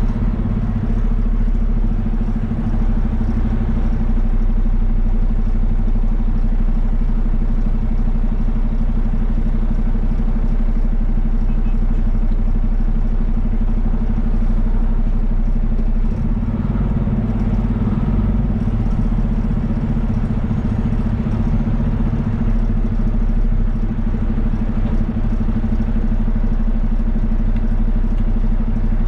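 Heavy equipment's diesel engine running steadily at a constant speed, a continuous low drone with no revving.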